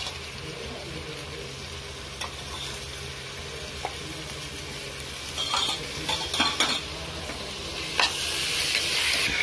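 Vegetable and paneer masala sizzling steadily in a hot pot as spoonfuls of curd are added, with a few light clicks of a steel spoon against the pot between about five and eight seconds in. The sizzle grows louder near the end.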